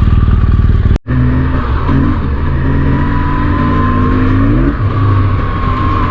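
BMW R1200GS's flat-twin boxer engine running under way as the motorcycle is ridden, its note rising and then dropping back as it shifts up. There is a brief dropout about a second in.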